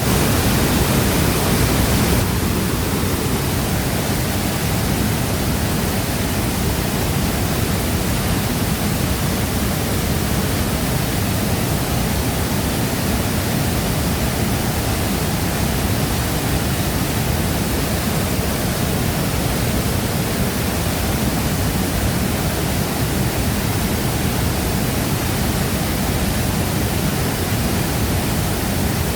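Shifen Waterfall's falling water rushing in a dense, steady wash of noise, heaviest in the low range; a little louder for about the first two seconds, then even.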